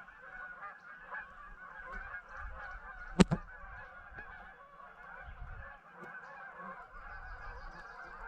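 A flock of geese flying over in a large V formation, honking continuously as many overlapping calls. A single sharp snap about three seconds in stands out above the honking.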